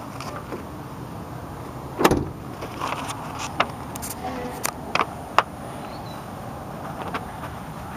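A pickup truck door shut with a solid thump about two seconds in, followed by several sharp clicks and knocks.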